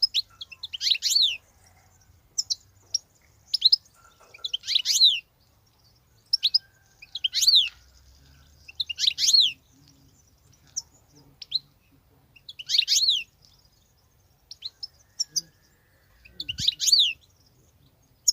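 European goldfinch giving short twittering phrases of quick, high, downward-sliding notes, one burst every second or two with short pauses between.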